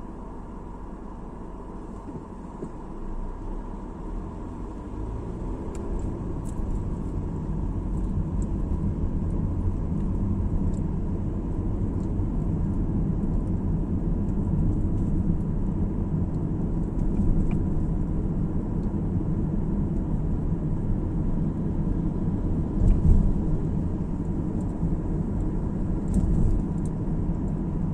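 Car cabin road noise while driving: a low tyre and engine rumble that builds over the first several seconds as the car gathers speed, then holds steady, with a couple of brief bumps near the end.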